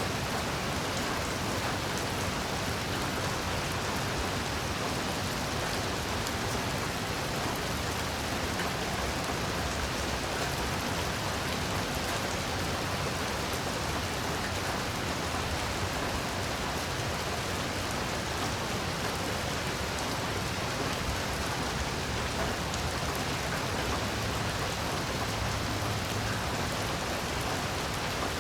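Heavy rain falling steadily: an even, unbroken hiss of rain with no lulls.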